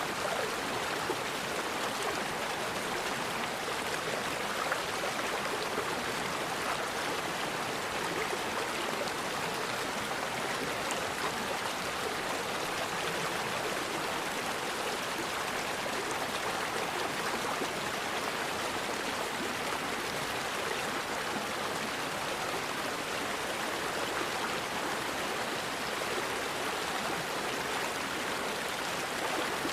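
A river flowing steadily over rocks, an even rush of water with no change in level.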